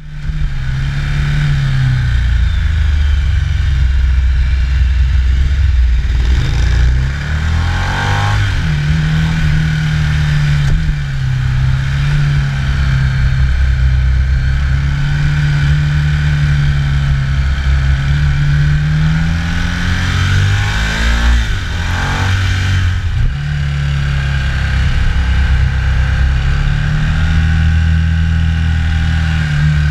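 Ducati motorcycle's V-twin engine running at speed, its note rising and falling with the throttle through the bends, with a few shifts in pitch as gears change. Wind rushes over the fork-mounted camera.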